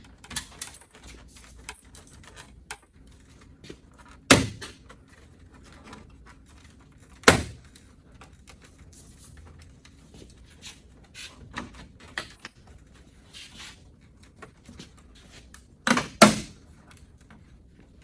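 Plastic front-end trim being worked off its push clips: scattered light plastic clicks and rattles, with a loud sharp snap about four seconds in, another about seven seconds in, and a quick double snap near the end.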